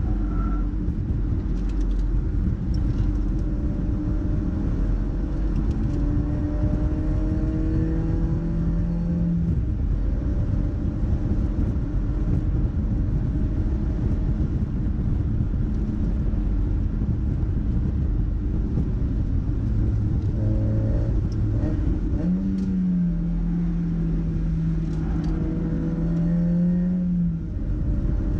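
Mazda MX-5's four-cylinder engine being driven hard on a race circuit. Its note rises and falls repeatedly as it accelerates and eases off, over a steady low rumble of road and wind noise.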